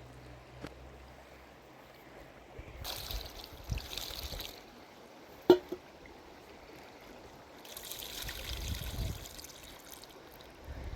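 Water pouring in two spells of about two seconds each, with a single sharp knock between them.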